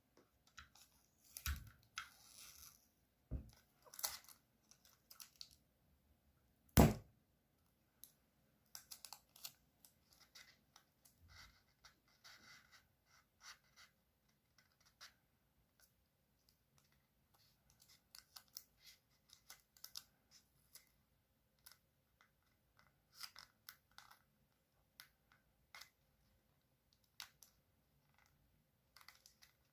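A sheet of paper being folded and creased by hand: scattered crackles, rustles and soft clicks of the paper, with one sharp knock about seven seconds in.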